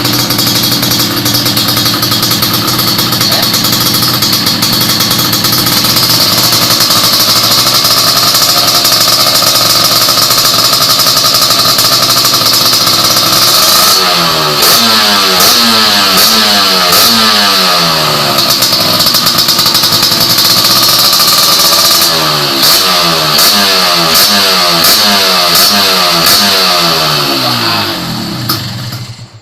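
Two-stroke Kawasaki Ninja 150 single running through an aftermarket racing exhaust. It runs steadily for about half the time, then is revved hard again and again in quick throttle blips, with a short pause between two bursts of revving. It is shut off near the end.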